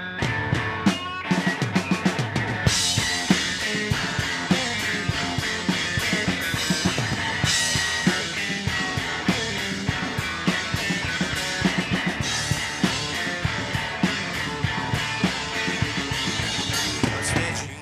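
Live rock band playing an instrumental break with no singing, the drum kit's bass drum and snare prominent. The sound grows fuller and brighter about three seconds in, and drops away just before the end.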